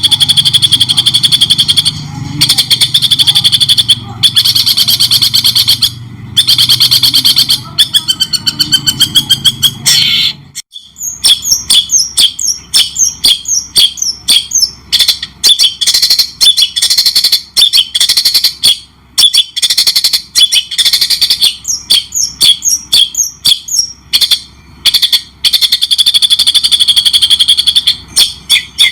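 Recorded songbird song of the kind used as a masteran training track for white-rumped shama and long-tailed shrike: a fast, harsh chattering trill, a brief break about ten seconds in, then quick runs of sharp chirps, with the chattering trill returning near the end.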